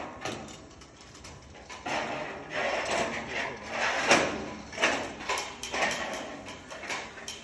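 Roller-coaster ride in motion, with irregular rattling and clattering bursts, the loudest about four seconds in.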